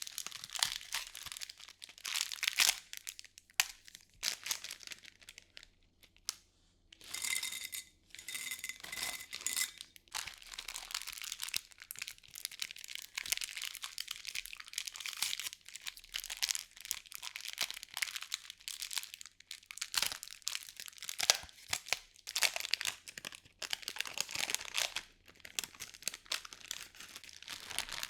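Packing material crinkled and crumpled by hand close to the microphone, a dense run of crackling rustles with a short pause about six seconds in.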